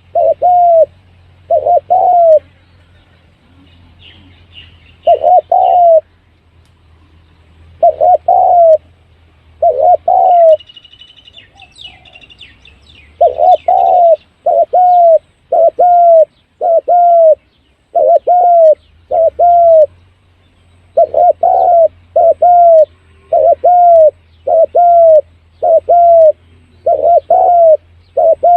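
Spotted dove cooing: short, loud coo notes in pairs and quick runs, the call used to lure doves in. Higher chirps from another bird come in briefly twice in the first half, over a low steady hum.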